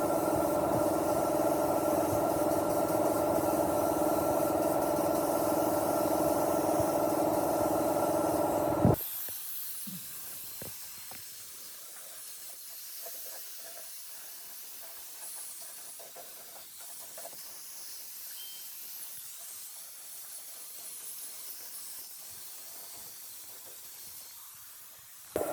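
Simson two-stroke motorcycle engine idling steadily, then cutting off abruptly about nine seconds in. A faint hiss with scattered light clicks follows.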